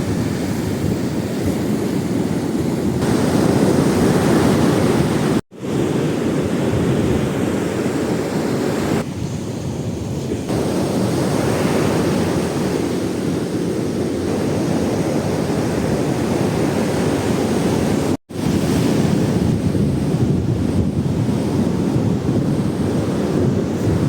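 Ocean surf washing and breaking on a sandy beach, a steady deep rush of waves, with wind buffeting the microphone. The sound drops out abruptly for an instant twice.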